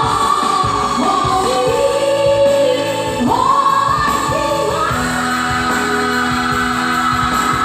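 A woman singing a song with instrumental accompaniment; her voice slides up to higher notes about three seconds in and again near five seconds, then holds one long high note.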